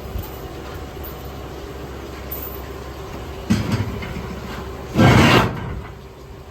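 Factory workshop noise: a steady low hum, a sudden sharp sound about three and a half seconds in, then a loud noisy burst lasting about half a second near five seconds in.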